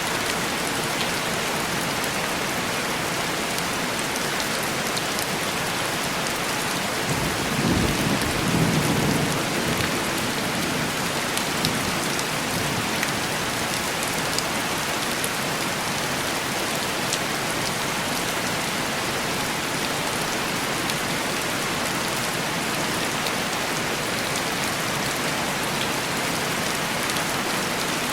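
Heavy rain falling steadily on window glass, with one low rumble of distant thunder about seven seconds in that swells and dies away over about three seconds.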